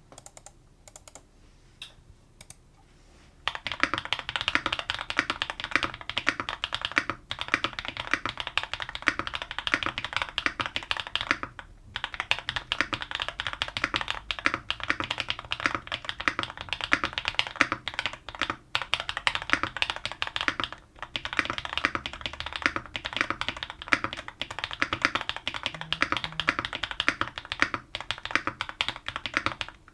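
Neo80 mechanical keyboard with stock Gateron Type R switches, aluminium plate and case foam being typed on. A few separate keystrokes come first, then fast continuous typing from about three and a half seconds in, broken by a few short pauses.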